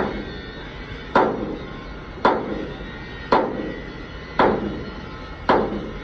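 Hammer blows on steel sheet metal, struck at a steady pace of about one blow a second, each with a short ring.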